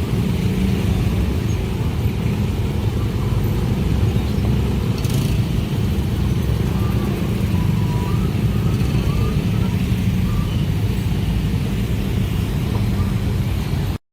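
A train passing close by at speed: a loud, steady low rumble of wheels and carriages on the track that continues without a break.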